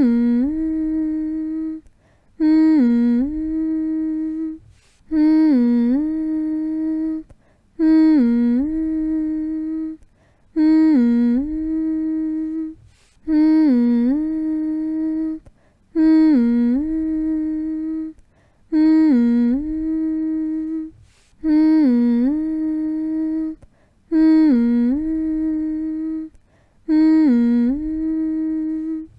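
A person humming a steady mid-pitched note that dips briefly and comes back up once in each phrase. The phrase repeats about every three seconds with short breaks, like a drawn-out "mm-hmm". It is a soothing, repetitive hum meant to lull a baby to sleep.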